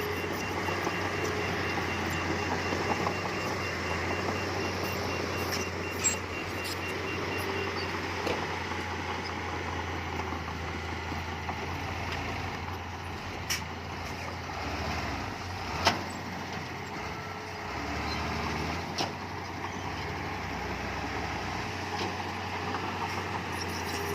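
Heavy diesel earthmoving machinery running steadily, with a few sharp knocks.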